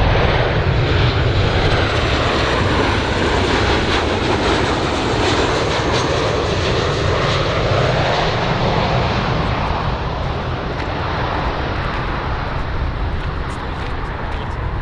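Aircraft engines running loud, a dense steady roar that swells through the middle and eases off a little in the last few seconds.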